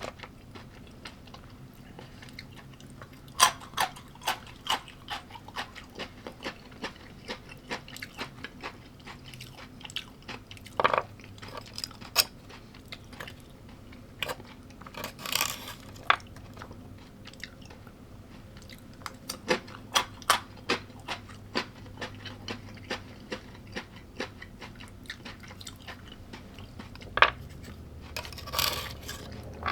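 A person chewing crunchy food close to the microphone, with runs of sharp crunches about twice a second.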